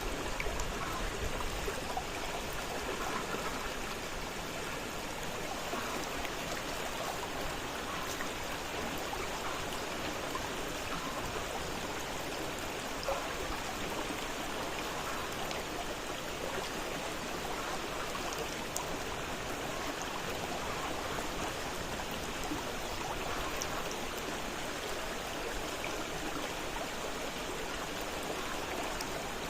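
Fast-flowing river running steadily over rocks, a continuous rush with many small splashes and trickles.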